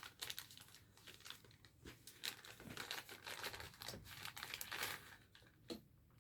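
Wrapping on a gift being crinkled and torn open: faint, irregular crackling rustles.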